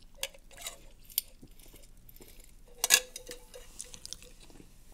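A few light clicks and clinks of utensils and food containers being handled during a meal. The loudest clink comes about three seconds in and rings briefly.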